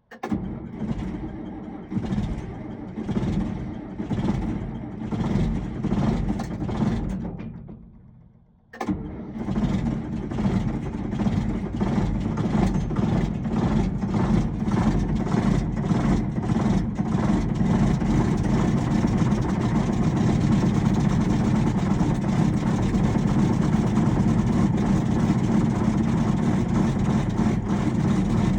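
John Deere diesel tractor engine cold-started: the starter cranks it over in slow, heavy pulses for about seven seconds without it catching, then, after a brief pause, a second try catches at once. The engine runs unevenly at first, then settles into a steady idle.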